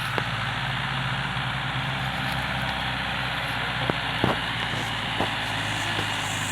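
Heavy diesel engine running steadily at low revs, with a few short sharp knocks over it.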